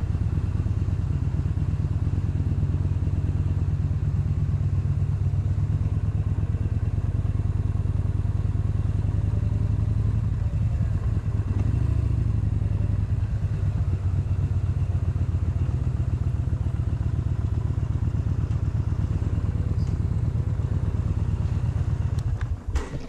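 Motorcycle engine running steadily while riding, with a brief change in its note about halfway through. The sound drops away sharply just before the end.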